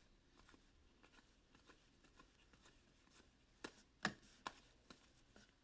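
Near silence, then about five light clicks and taps over the last two seconds or so: hockey trading cards and packs being handled.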